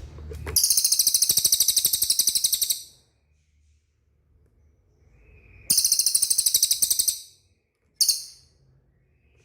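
A cililin bird calling: loud, very rapid high-pitched trills, a long one of about two seconds, another of about a second and a half, then a short burst near the end.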